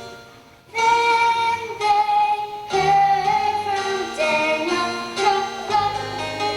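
Children singing a song with instrumental accompaniment, coming in about a second in after a held chord dies away.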